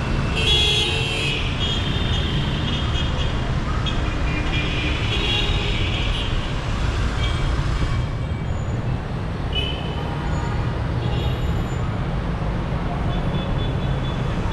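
Dense city street traffic: a steady rumble of car, bus and motorbike engines, with car horns honking several times, mostly in the first half and again briefly about ten seconds in.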